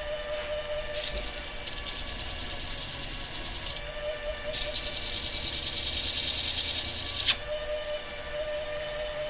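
A workshop machine running steadily with a constant whine, joined by a hiss that swells from about four seconds in and cuts off sharply about seven seconds in.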